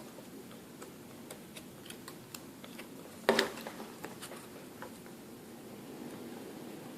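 Faint scattered clicks and taps of small phone parts being handled while the new screen's ribbon connector is fitted to a Samsung Galaxy S3 board, with one louder tap about three seconds in.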